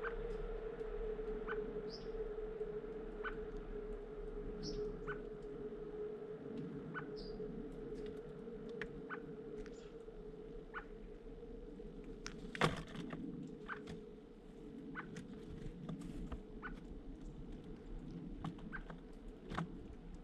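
Small birds: a few short, high chirps in the first half over repeated sharp little taps about once a second, with one louder knock about halfway through, all over a steady low hum.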